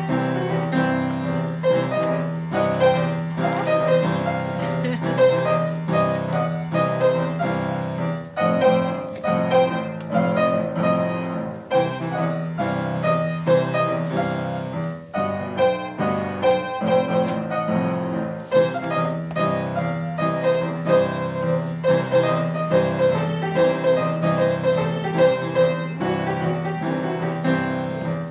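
Piano duet playing a 12-bar blues: a repeated low chord pattern carries the changes under a melody line and improvised solo played continuously.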